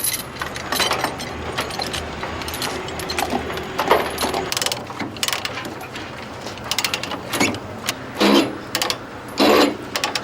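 Tie-down chains rattling and clinking while a ratchet chain tightener clicks as it is cranked, tensioning the chains that hold a load down. A few louder clanks come near the end.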